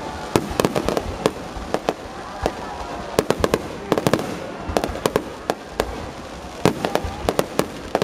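Fireworks exploding in rapid, irregular volleys of sharp cracks and bangs, several a second in clusters, over a steady background din.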